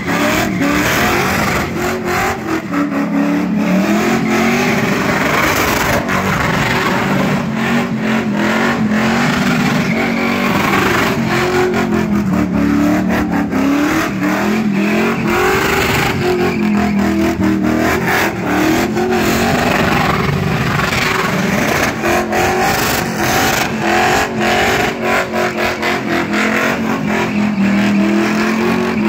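Car engine revving hard during a tyre-smoking burnout, its pitch rising and falling over and over as the spinning tyres hiss and squeal.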